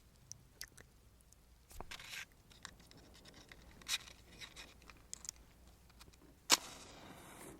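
Small clicks and rustles of objects being handled, then about six and a half seconds in a match is struck sharply and flares with a hiss that fades over about a second, lighting a candle.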